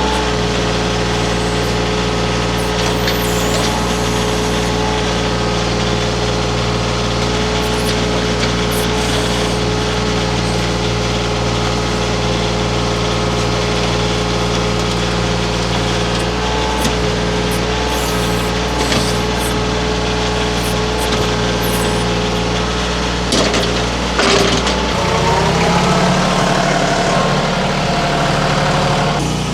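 Baumalight mini skid steer's engine running steadily with a steady whine over it, and a few sharp cracks along the way. About 25 seconds in, the engine note rises.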